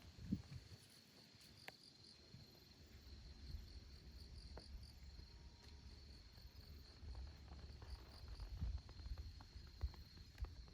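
Insects trilling steadily at one high pitch, over a low rumble with a few soft thumps and scattered faint clicks.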